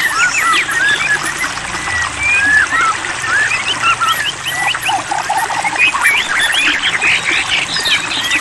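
White-rumped shama song: a dense, varied run of clear whistles and quick chirps, sliding up and down in pitch, with a fast trill about five seconds in.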